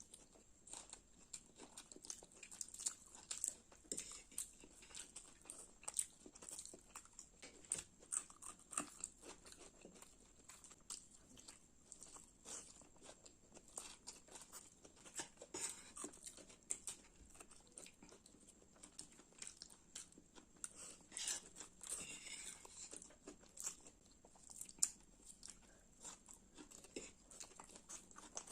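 Close-miked chewing and biting of fried Maggi noodles and soft-boiled eggs: a steady, irregular run of short clicky mouth sounds.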